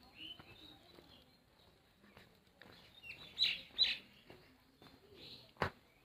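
Small birds chirping a few times, the loudest two calls about halfway through, with a sharp click near the end.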